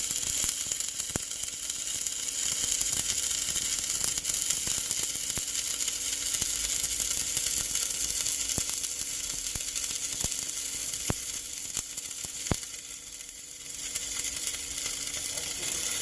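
Stick-welding arc from a ROLWAL MMA-200P inverter arc welder, crackling and sizzling steadily as the electrode burns along a bead, with scattered sharp pops. It goes quieter for about a second near the end, then picks up again.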